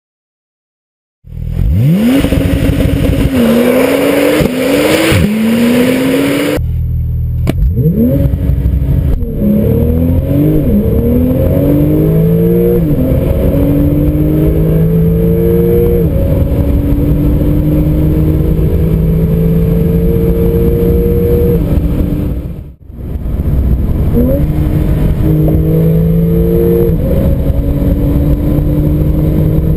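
Porsche 911 Turbo S twin-turbo flat-six engine under full-throttle acceleration, starting about a second in. Its pitch climbs and drops back at each upshift, and the climbs grow longer through the higher gears as speed builds. The sound breaks off briefly twice, around a quarter of the way in and near the end.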